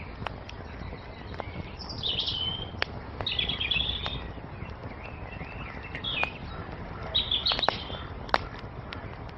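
Small songbirds chirping in short bright phrases, about a second apart at times, over the scattered sharp pops and crackles of a burning wood fire with a steady low hiss beneath.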